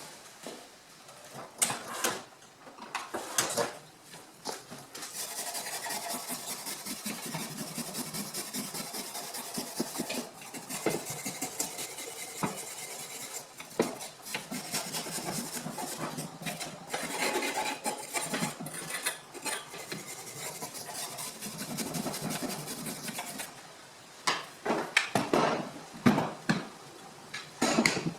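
Scraping and rubbing on the wood heater's door, with sharp clinks and knocks of metal at the start and again near the end. The long scraping stretch in the middle is typical of working the old, disintegrating seal out of its groove.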